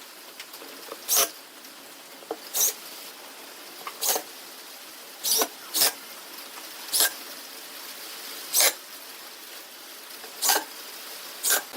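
Sharp, short taps of a tool striking wood, about nine of them at irregular intervals roughly a second or so apart, over a faint steady hiss.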